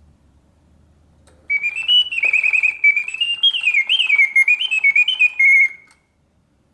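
A 1968 Reuge mechanical singing bird cage's bellows-driven whistle sings one phrase of warbling, rising and falling notes with quick trills, starting about a second and a half in and ending on a held note near the end; it then falls silent, the pause feature working, a sign of sound bellows and mechanism.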